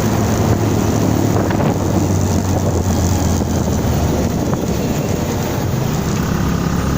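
Motorcycle engine running steadily while riding, with wind noise buffeting the phone's microphone.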